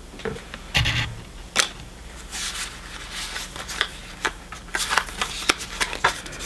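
Pokémon trading cards being handled and flipped through: a run of sharp flicks and rustles, the loudest about a second in.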